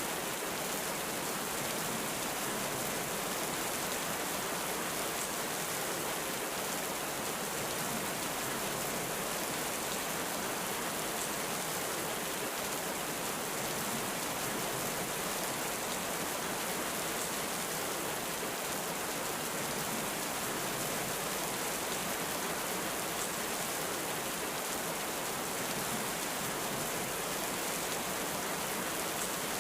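Heavy rain falling steadily, an even unbroken hiss with no thunder rumbles.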